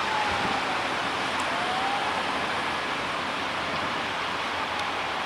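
Steady rolling noise of a passenger train's coaches running on the track as they move away, easing slightly, with faint whining tones that slide down and then up.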